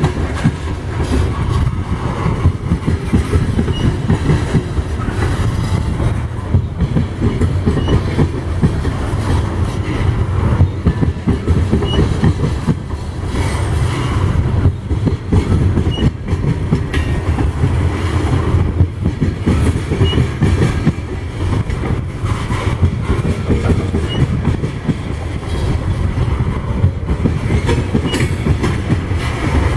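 Coal cars of a long BNSF coal train rolling past close by: a steady, loud rumble of steel wheels with clickety-clack over the rail joints. A faint short high chirp comes about every four seconds.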